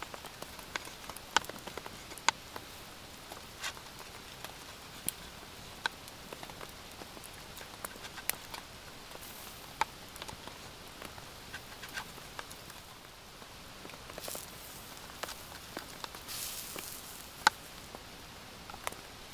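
Steady rain, with single drops tapping at irregular intervals and a few louder taps.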